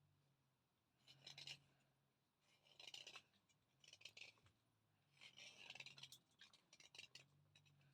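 A thick Chandni slate pencil being crunched, bitten and chewed dry close to the microphone, in about six short gritty bursts with brief pauses between.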